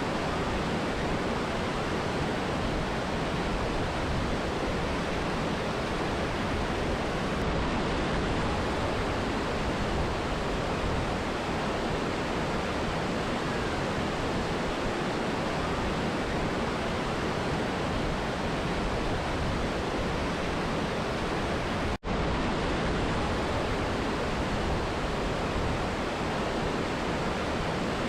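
Steady rush of a mountain river and waterfall, an even roar of falling and flowing water. There is one split-second dropout about three quarters of the way through.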